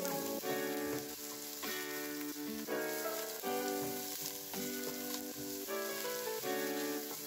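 Chopped onions and garlic sizzling in hot oil in a stainless steel pot as a wooden spoon stirs them, under background music of sustained chords that change about every second.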